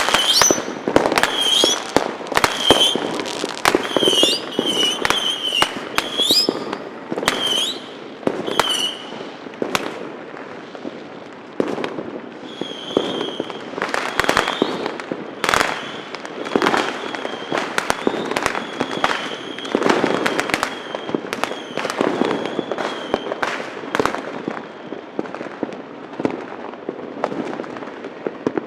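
Many fireworks and firecrackers going off at once, a steady rattle of sharp bangs and crackling, thickest in the first few seconds and again about halfway through. Short wavering high whistles sound again and again among the bangs.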